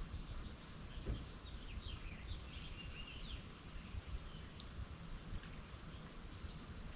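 Quiet lakeside ambience: a bird chirping a quick run of short, gliding calls in the first half, over a steady low rumble of breeze.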